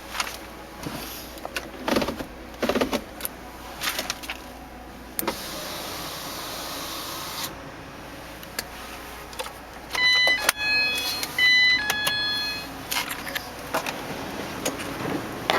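Scattered clicks and knocks of handling, with a quick run of short electronic beeps at several pitches about ten seconds in.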